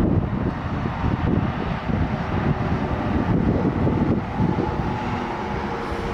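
Highway traffic passing at speed, with tyre and engine noise and a faint steady engine tone partway through, mixed with wind buffeting the microphone.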